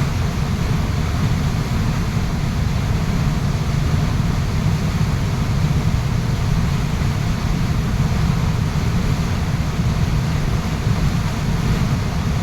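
Waterfall water rushing steadily: a loud, unbroken noise that is heaviest in the low rumble.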